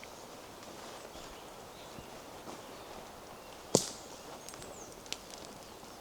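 Footsteps on a forest path, with one loud, sharp crack a little over halfway through and a smaller click about a second later. Faint high bird chirps sound in the background.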